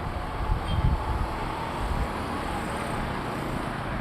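Roadside traffic noise: vehicles running past with a steady rumble of road noise, strongest in the first second.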